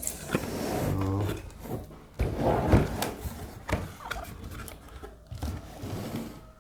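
Cardboard box being opened by hand and the packing inside handled: rustling, scraping and a few sharp knocks.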